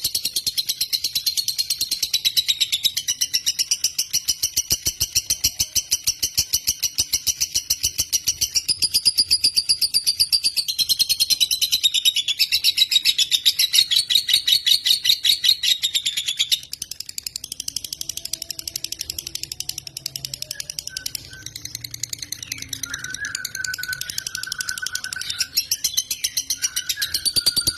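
Lovebird singing a long, high-pitched, rapid chattering trill. It drops to softer, lower chirping notes a little past halfway.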